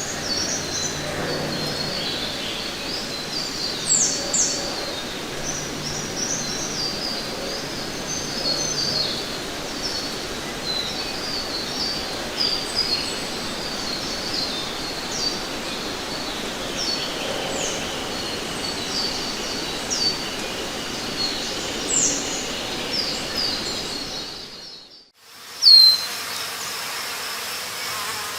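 Forest ambience: many small birds chirping over steady background noise. The sound dips out briefly and comes back near the end, followed by one loud chirp.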